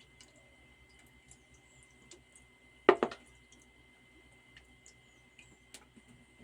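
Faint kitchen handling clicks and ticks, with one sharp knock about three seconds in, as of a bottle or pot being set down on the stove. A faint steady high whine runs underneath.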